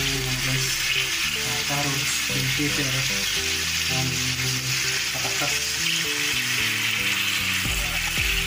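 Chicken pieces with onion and garlic frying in a stainless steel pan, a steady sizzling hiss, with background music over it.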